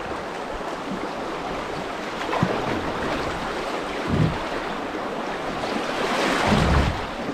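Rushing water of small river rapids with wind buffeting the microphone, the rush growing louder near the end. A couple of low thumps about four seconds in and again near the end.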